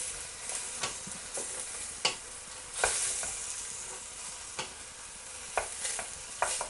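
Chopped onions, peppers, celery and carrots sizzling in oil in a pan while being stirred, with a steady hiss and irregular scrapes and knocks of the spoon against the pan.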